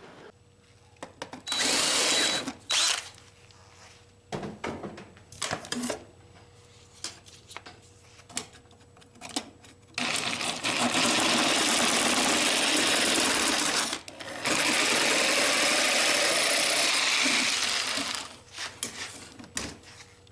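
A power tool running in bursts: a short run near the start, then two long runs of about four and three seconds from about halfway in. Scattered knocks and clatter fall between the runs.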